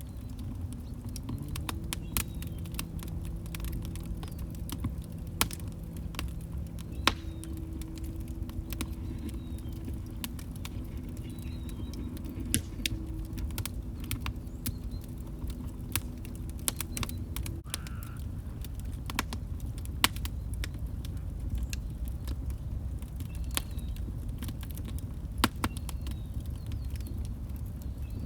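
Log fire burning in a fireplace: a steady low rumble of flames with frequent irregular crackles and a few louder pops. A low steady hum sits underneath for the first half, stopping about two-thirds of the way through.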